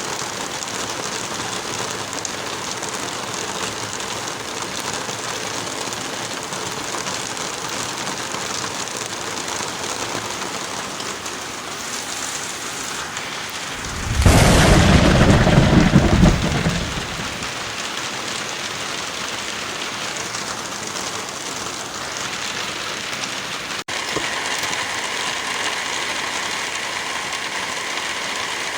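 Heavy rain falling steadily, with a loud clap and rumble of thunder about halfway through that lasts roughly three seconds. Near the end the rain sound briefly drops out and carries on with a slightly different tone.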